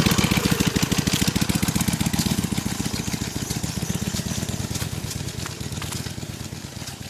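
Harley-Davidson Iron 883's air-cooled V-twin engine running with an even, fast pulse, fading steadily as the motorcycle moves off along the trail.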